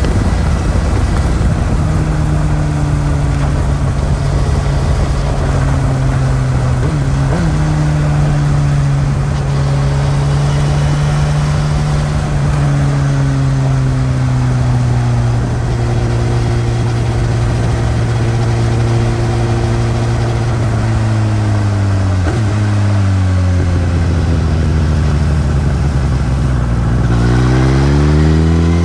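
Suzuki GSX-S1000's inline-four engine with its stock exhaust, heard while riding: a steady engine note that sinks slowly for most of the stretch, broken by a few short dips, then climbs sharply near the end as the bike accelerates. Wind and road noise run underneath.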